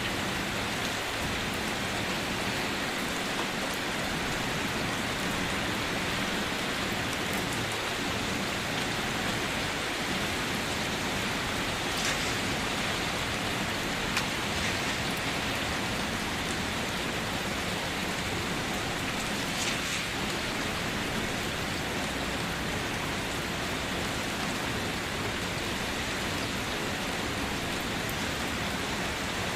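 Steady rain falling, an even hiss of many drops with a few louder individual drops landing now and then.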